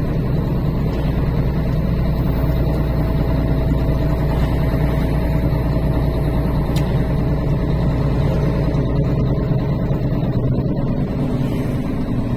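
Truck engine and road noise heard from inside the cab while driving: a steady low rumble, whose deepest part eases about ten seconds in.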